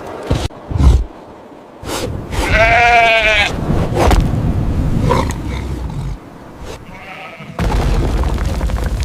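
An animal's wavering, pitched call lasting about a second, about three seconds in, and a fainter one near seven seconds, over a low rumble.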